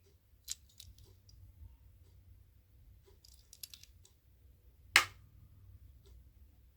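Small plastic and metal clicks and taps of a die-cast toy car being handled, with one sharp, louder click about five seconds in.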